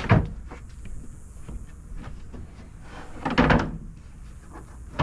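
Knocks and a short scraping slide as a storage platform panel is pushed and fitted into place in a Jeep's cargo area: a sharp knock at the start, a louder rubbing slide about three and a half seconds in, and another knock near the end.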